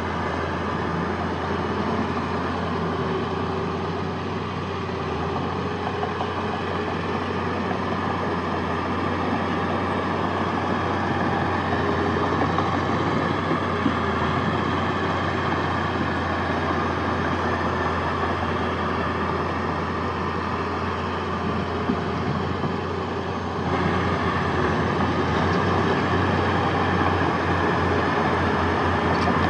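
Heavy earthmoving machinery's diesel engines running steadily under load, a little louder from about 23 seconds in.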